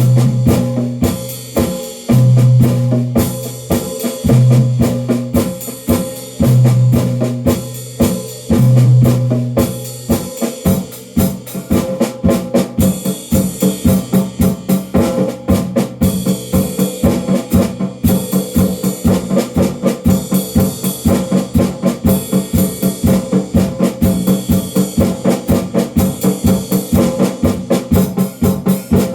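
A drum kit being played. For the first third, long low tones come in repeated blocks under the hits; after that a steady, fast beat of even strokes runs on.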